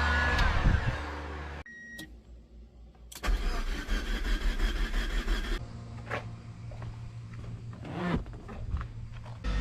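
Starter cranking the 2000 Mazda Miata's engine over, in a few short clips cut together, without it catching: a no-start traced to a P1345 crank/cam sensor code.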